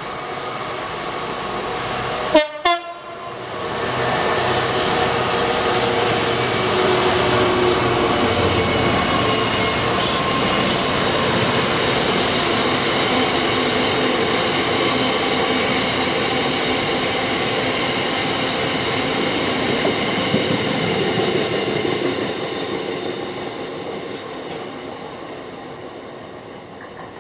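Diesel freight train passing: a Class 66 locomotive followed by a long rake of hopper wagons rumbling and clattering over the rails. The noise builds, holds loud and steady, then fades over the last few seconds as the train moves away. A sharp click comes about two seconds in.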